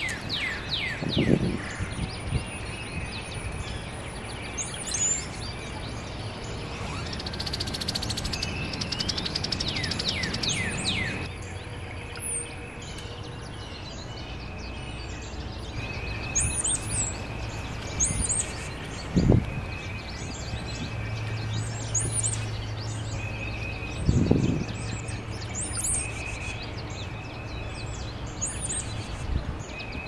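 Wild songbirds chirping and calling: many short high chirps, quick runs of falling notes near the start and about ten seconds in, a thin high whistle held for the first dozen seconds, and a short note repeated about once a second. A few soft low thumps come through about a second in and near twenty and twenty-four seconds.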